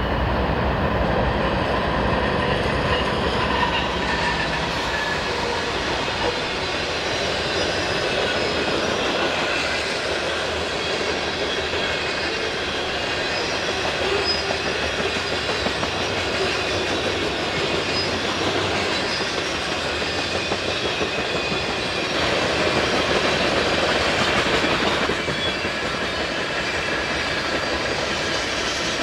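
BNSF freight train passing at speed on the main line: the steady rattle and clickety-clack of freight cars' steel wheels over the track, with faint wheel squeal. A heavier low rumble in the first few seconds eases off as the cars roll by.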